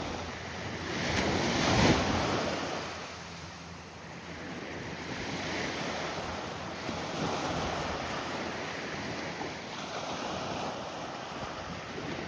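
Surf breaking and washing up on the beach in rising and falling swells, loudest about two seconds in, with wind on the microphone.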